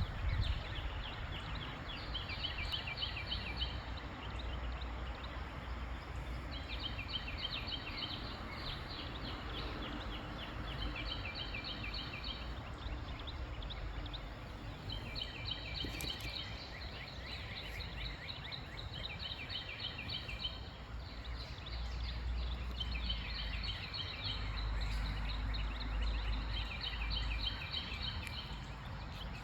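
A bird calling in repeated bouts of fast chattering notes, each bout lasting a second or two. Wind rumbles on the microphone throughout and grows stronger about three quarters of the way through.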